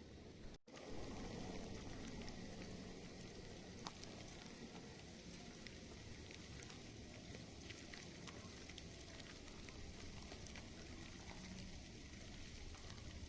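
Outdoor wood bonfire crackling faintly, a steady hiss with scattered small pops, after the sound cuts out briefly about half a second in.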